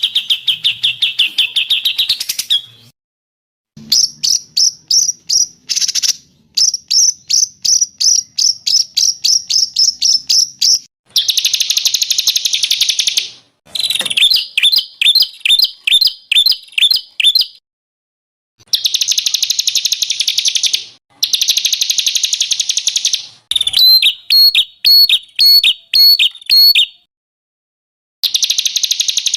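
Recorded songbird song: a string of separate high-pitched phrases. Fast trills and runs of repeated chirping notes, about four or five a second, alternate with harsh buzzy phrases, each phrase ending abruptly in a clean gap of silence.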